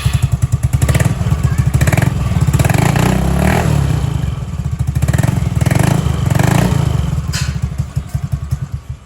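Yamaha Nouvo scooter's single-cylinder four-stroke engine running through a short aftermarket exhaust, a loud, evenly pulsing idle with a few brief throttle blips. It stops abruptly near the end.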